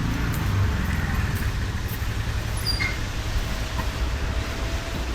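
Motorcycle engine running steadily while riding, a low drone with road noise, and a brief high chirp about three seconds in.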